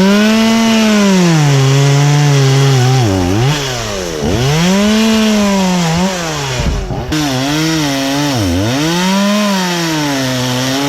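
Two-stroke chainsaw running at close range while cutting wood, its engine speed repeatedly sagging and picking back up, with several sharp dips in pitch.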